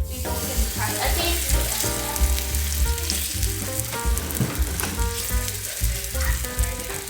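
Kimchi pancakes frying in oil, sizzling steadily, with background music that has a steady bass beat underneath.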